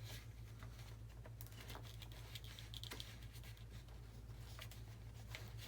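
Faint scattered clicks and rustles of hands handling ESC wire leads and the plastic and foam parts of an RC model airplane's wing, over a steady low hum.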